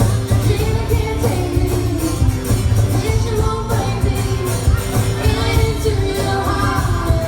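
Live country music: a band playing a song with a woman singing the melody over a steady beat and strong bass.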